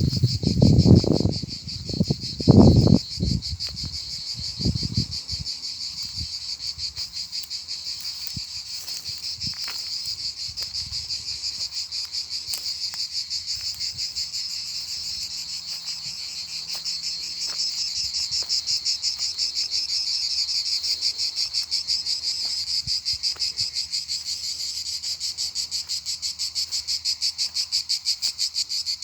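Steady chorus of crickets or similar insects, a high, rapidly pulsing trill that keeps going throughout. A few loud, low thumps break in during the first few seconds.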